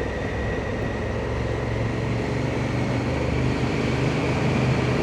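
Honda Africa Twin motorcycle riding along, its engine running at a steady hum under a broad rush of wind noise, growing slightly louder over the few seconds.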